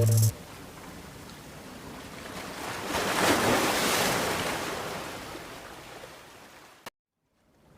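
Ocean surf: one wash of waves swells up to a peak a few seconds in and slowly fades away. It cuts off abruptly to silence near the end.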